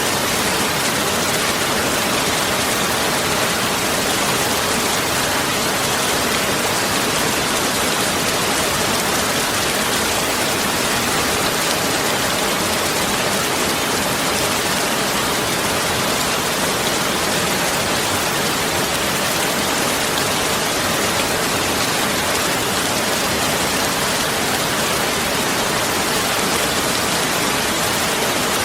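Heavy rain falling steadily, a dense, even hiss of many drops with no let-up.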